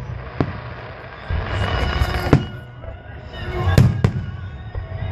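Aerial fireworks bursting: about five sharp bangs, the loudest a little over two seconds in and near four seconds in. Music plays faintly underneath.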